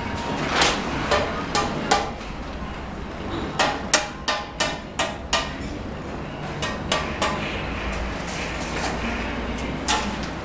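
Sharp knocks of a steel trowel striking cement bricks, the tapping and cutting of bricklaying. A few single knocks are followed, a few seconds in, by a quick run of about six, then scattered knocks again.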